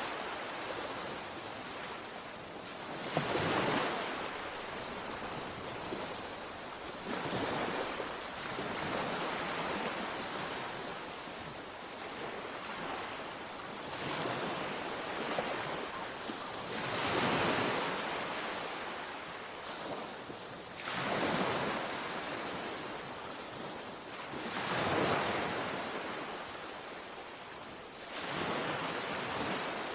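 Sea waves washing onto the shore, each one swelling and falling away every few seconds over a steady hiss of surf.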